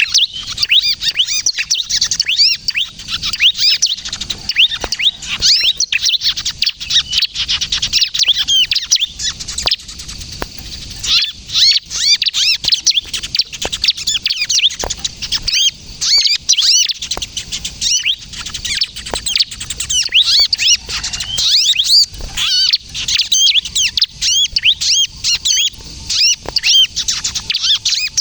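Bar-winged prinia (ciblek kristal) giving a fast, unbroken stream of sharp high chirps and twitters in the agitated 'kejepit' (squeezed-bird) style, a call used to lure prinias and set them singing.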